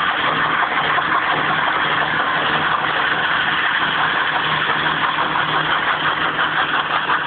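Renault 19 turbo diesel's four-cylinder engine running hard at steady, unchanging revs during a burnout, with a dense rasp of noise over the engine note. The engine is being held flat out until it eventually fails.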